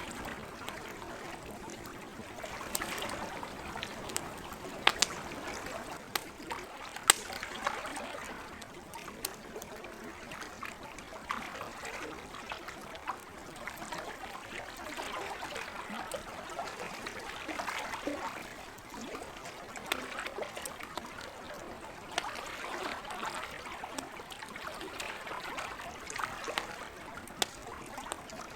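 Campfire crackling, with sharp pops every second or two, over lake water lapping at the shore in slow swells.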